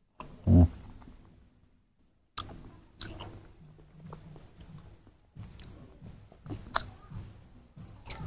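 Wet chewing and smacking of soft ripe papaya flesh, close to the microphone, as irregular clicks from about two and a half seconds on. A brief low sound comes about half a second in.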